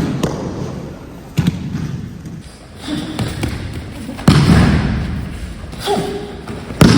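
Heavy thumps of people being thrown and falling onto training mats, three loud impacts a couple of seconds apart, each ringing out in a large hall.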